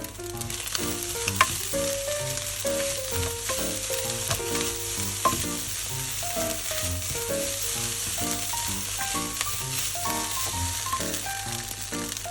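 Fried rice sizzling in a hot pan as it is stir-fried, with a steady hiss and a few sharp clicks of the spatula against the pan. Background music plays along.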